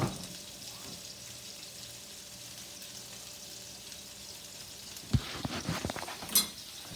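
Beef burgers sizzling steadily in a frying pan, with a sharp knock at the start and a run of clicks and clatter from kitchenware about five seconds in.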